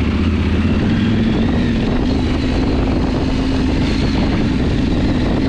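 Adventure motorcycle engine running steadily under way at low speed, heard up close from the handlebars.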